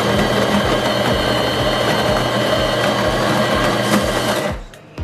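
De'Longhi Dinamica Plus built-in burr grinder grinding coffee beans for an espresso. It runs with a steady whir and stops about four and a half seconds in, followed by a few faint clicks.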